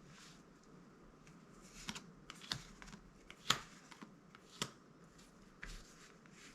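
Magic: The Gathering trading cards being handled: soft sliding and rustling of card stock, with a few sharp light clicks as cards are flicked or tapped.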